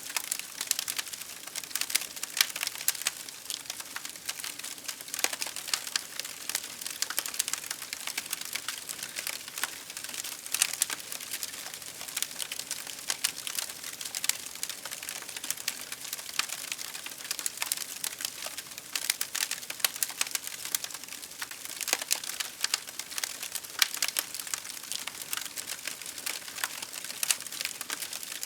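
Wood fire crackling steadily: dense, irregular sharp pops and snaps over a soft hiss of burning.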